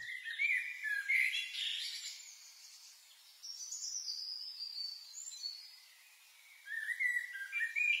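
Songbirds chirping and singing in short, high phrases, with brief lulls about three seconds in and again about six seconds in.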